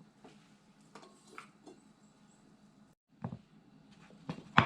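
A few scattered light knife taps and clicks on a cutting board during chopping, with a sharper knock near the end.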